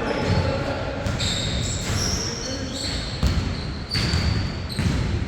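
Basketball bouncing on a court during a game, with repeated sharp thuds, short high squeaks and players' voices.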